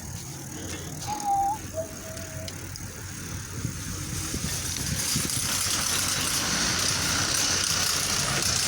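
Bicycle riding along a road: the bike rattles over the surface, with a brief squeak about a second in and road-traffic hiss building over the second half.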